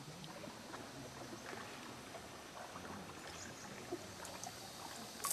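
Water gently lapping and trickling around a paddled sea canoe: a steady soft wash with scattered small clicks and drips, and one sharper knock near the end.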